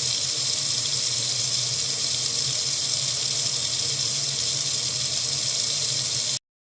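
Water running steadily from a faucet: an even, hissing rush with a low steady hum underneath. It cuts off abruptly near the end.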